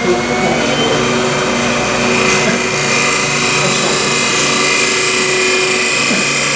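Wood lathe running with a turning tool cutting into a small spinning wooden blank: a steady motor hum under the hiss of the cut, which grows fuller about two seconds in.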